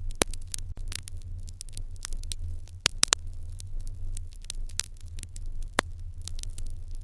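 Wood fire in an irori hearth crackling, with irregular sharp pops several times a second and a few louder ones, over a steady low rumble.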